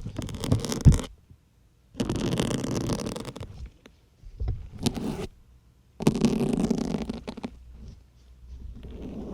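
Syringe needles pushed into a soft foam sponge close to the microphone, each push a squeaky, crunching rasp. It happens about four times, with short pauses between, and a few sharp clicks near the start.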